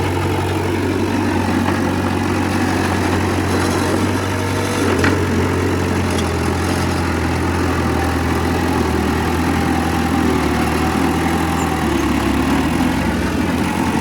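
Heavy diesel engine of earthmoving equipment running steadily, with a brief click about five seconds in and a change in the engine note near the end.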